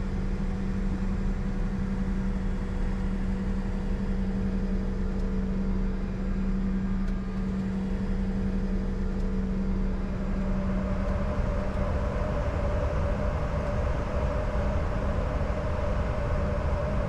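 Steady in-flight cockpit noise of a Bombardier Challenger 605 business jet: air rushing past the cockpit with a low hum from the aircraft. About ten seconds in, the steady low tone fades and a higher steady tone takes over.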